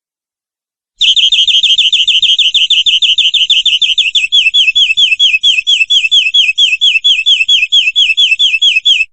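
Domestic canary singing one long, fast trill of repeated downward-sweeping notes, which slow slightly about halfway through. It starts about a second in and cuts off abruptly near the end.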